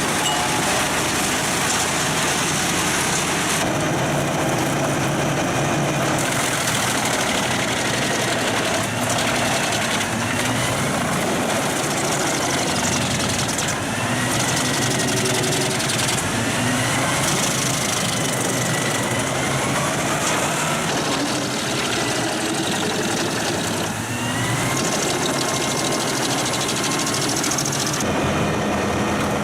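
Heavy drum wood chipper running under load as logs are fed in: a steady, loud engine and cutting noise whose pitch rises and falls every few seconds as the load changes.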